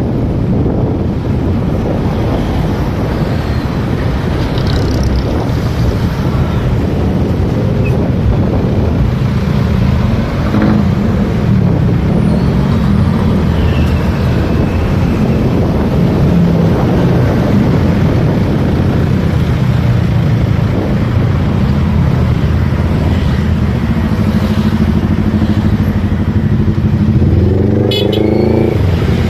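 Motorcycle running along in traffic, its engine sound mixed with wind noise on the microphone. Near the end a vehicle engine revs up, its pitch rising.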